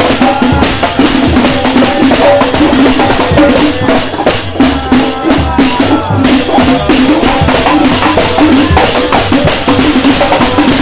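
Loud music with a steady beat of drums and jingling tambourines, played through a large sound system.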